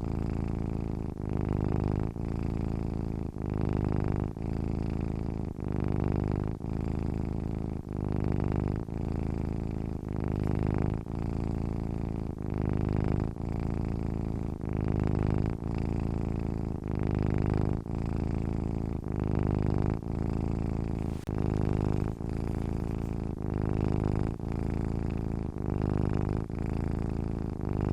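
Domestic cat purring while asleep, a steady low purr that swells and dips with each breath about once a second.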